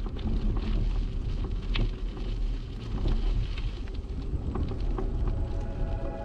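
Wind buffeting a bicycle-mounted GoPro's microphone over a low, steady rumble from the ride, with scattered small clicks and rattles.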